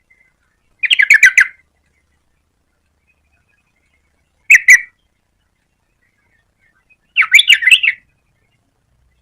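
Yellow-vented bulbul calling: a quick run of about six bubbly notes, a short double note a few seconds later, then another quick run of notes near the end.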